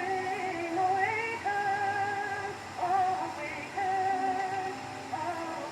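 Soprano singing a slow melody in long held notes with a wide vibrato and short slides between them, from a 1916 acoustic-era Victor 78 rpm record.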